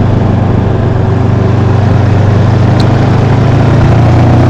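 Honda motorcycle engine running steadily while riding, its pitch creeping up slightly near the end.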